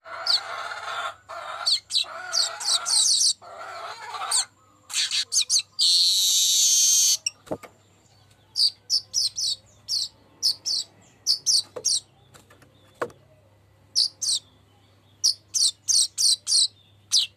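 Manyar weaver bird singing. It opens with a dense, scratchy chatter of sharp high notes, gives a long harsh wheezing buzz about six seconds in, then goes on with a string of short, sharp, downward-slurred high chips.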